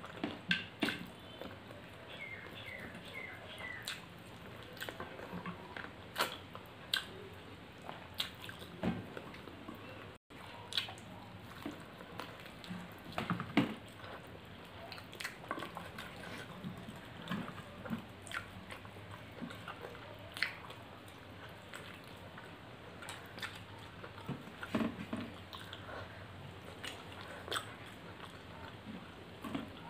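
Close-miked chewing and mouth sounds of people eating rice and curry by hand, with irregular small clicks and taps.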